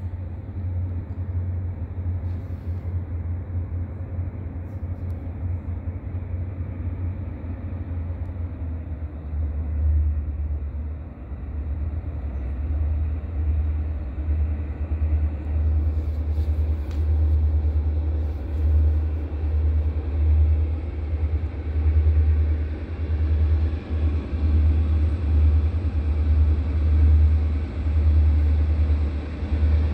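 Low, uneven rumble of diesel locomotives on a train approaching from a distance, growing louder over the second half.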